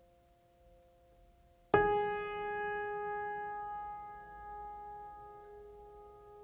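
A single struck, bell-like note about two seconds in that rings on and slowly fades, after the faint tail of an earlier ringing note.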